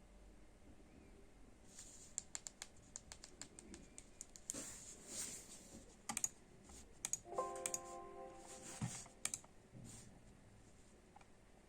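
Typing and clicking on a computer keyboard, irregular key clicks for several seconds. A brief electronic tone of a few pitches comes about seven seconds in.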